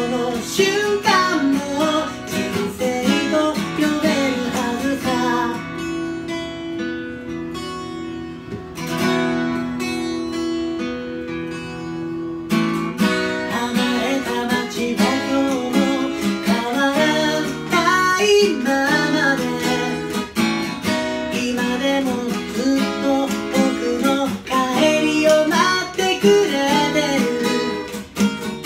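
A song played on strummed acoustic guitar with a singing voice over it; for a few seconds in the middle the guitar holds sustained chords.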